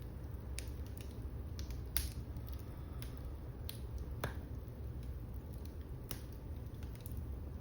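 Wood fire crackling in a fireplace: sharp pops and snaps every second or so, the loudest about two seconds in, over a steady low rumble of the burning fire.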